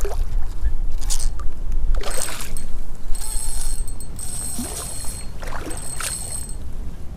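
A hooked brown trout splashing at the surface of a creek several times, over the rumble of flowing water. In the middle, the spinning reel's drag buzzes steadily as the fish pulls line.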